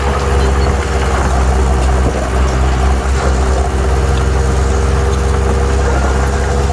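Heavy diesel engine of an earthmoving machine running at a steady speed, a deep, even drone with no revving.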